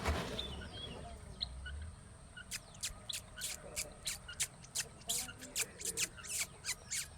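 A quick, irregular run of sharp clicks, about three or four a second, starting a couple of seconds in, with a few faint high chirps among them.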